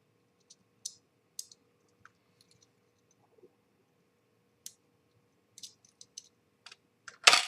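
Small model-kit parts and screws clicking and tapping as they are handled, in scattered light clicks at irregular intervals, with one louder knock near the end.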